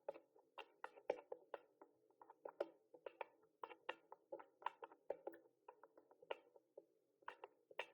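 Typing on a mechanical keyboard: a steady, uneven run of sharp key clicks, about five a second.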